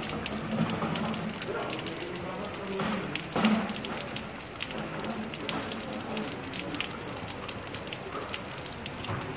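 Rain pattering: a steady hiss with many irregular crackly drip ticks. Faint voices murmur underneath, one briefly louder about three and a half seconds in.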